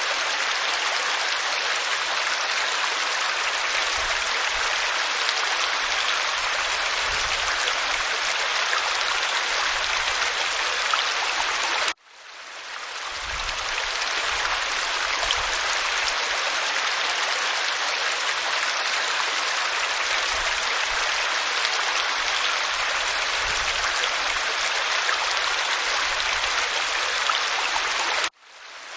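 Waterfall pouring over rock: a steady rushing hiss of falling water. It cuts out suddenly twice, about twelve seconds in and near the end, and swells back within a second or two.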